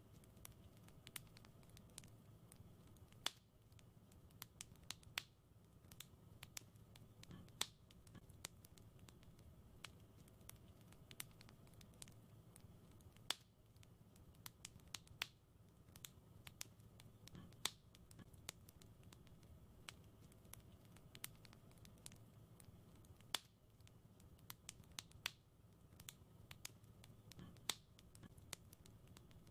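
Wood fire crackling in a fireplace: irregular sharp pops and snaps, several a second and some louder than the rest, over a soft low rumble of the burning fire.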